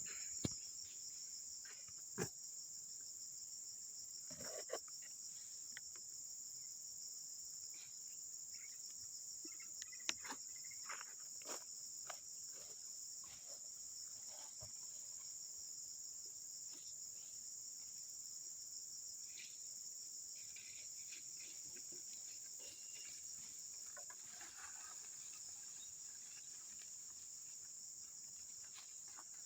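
Steady high-pitched chorus of crickets, with scattered short knocks and rustles, most of them in the first half.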